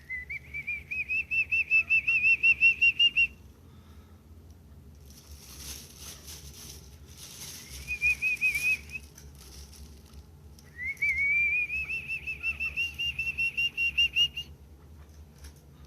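Chukar partridge calling in three bouts of rapid, evenly repeated notes, about six a second, each bout rising slightly in pitch. The first and last bouts are long and a short one comes about halfway; a brief rustling noise comes between the first two.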